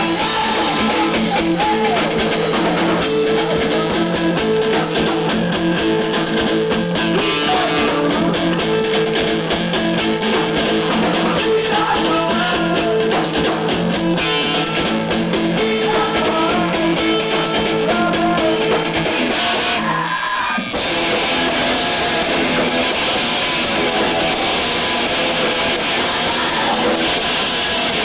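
Rock band playing loud, with electric guitar and drum kit, and a momentary break in the sound about two-thirds of the way through.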